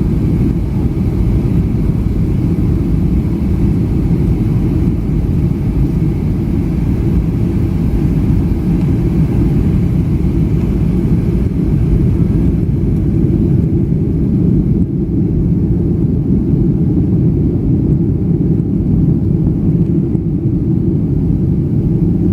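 Steady low rumble of a Boeing 757-300's cabin in flight: engine and airflow noise heard from a passenger seat, with no sharp changes and the higher hiss easing slightly a little past halfway.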